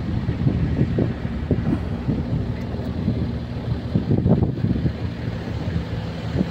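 A vehicle engine drones steadily on the move in a convoy of Isuzu Panther SUVs, with irregular gusts of wind buffeting the microphone.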